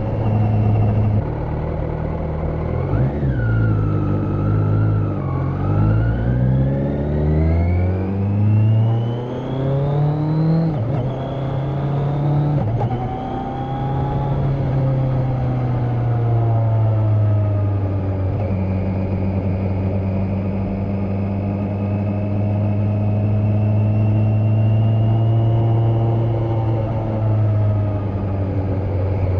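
Kawasaki Z900 (2020) inline-four engine, with its catalytic converter removed, pulling the bike along. It climbs in pitch under acceleration for several seconds near the start, drops back as the throttle eases, then holds a steady cruising note through the second half.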